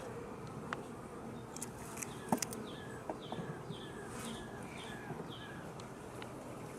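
Honey bees buzzing steadily around an open hive, with a few light clicks scattered through.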